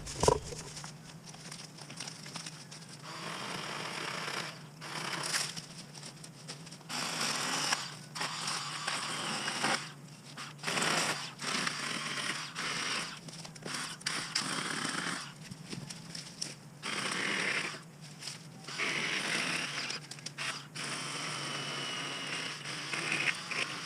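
Ryobi 40-volt battery chainsaw cutting scrub brush, run in repeated short bursts of a second or two with brief pauses between.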